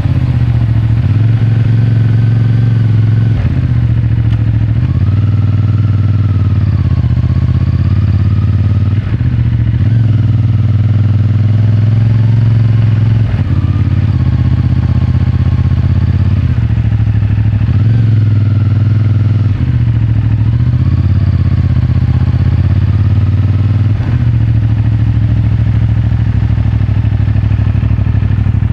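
CFMOTO 450MT's parallel-twin engine and stock exhaust running on the move, heard close from a pocket microphone. The engine note climbs and drops several times as the throttle and revs change.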